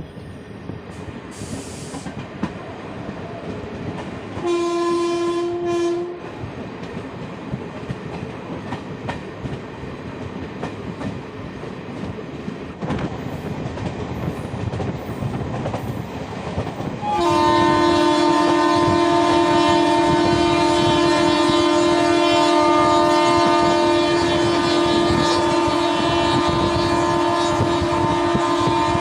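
Indian Railways express train running on the rails, with a short locomotive horn blast about five seconds in. Near the middle a long, loud, steady horn starts and is still sounding at the end.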